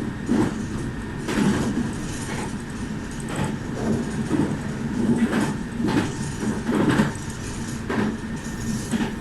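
Meitetsu 2000 series μSKY electric multiple unit running, a steady low rumble with wheel knocks over rail joints about once a second.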